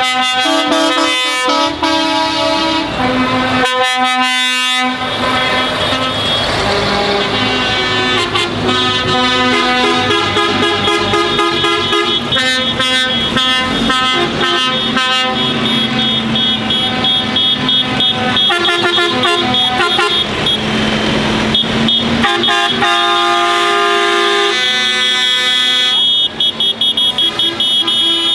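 Lorry air horns honking again and again, several horns of different pitches overlapping and breaking off, over the running of truck engines.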